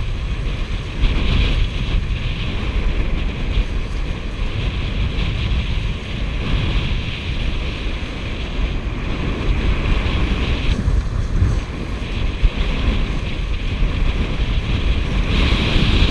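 Strong wind buffeting the microphone over the steady rush and hiss of water along a Tornado catamaran's hulls as it sails fast in a gusty breeze.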